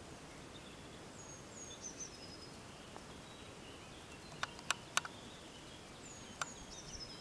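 Quiet outdoor background hiss with a small bird singing two short phrases of high notes that step downward. A few sharp clicks come in the second half.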